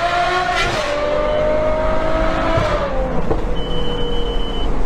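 Ferrari sports car engine revving hard under acceleration. The pitch climbs, drops at an upshift under a second in, climbs again, then falls away as the throttle eases off about two and a half seconds in.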